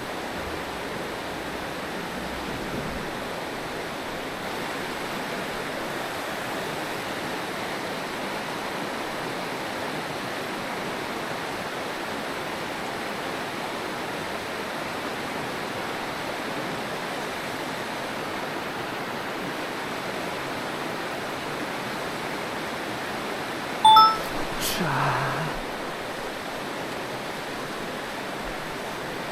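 Mountain stream water rushing steadily. A short, sharp, louder sound breaks in once, about four-fifths of the way through.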